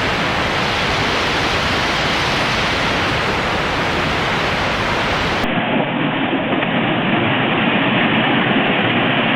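Loud, steady rush of water, like floodwater or heavy rain. About five and a half seconds in it cuts to another stretch of the same kind of rushing noise, duller at the top.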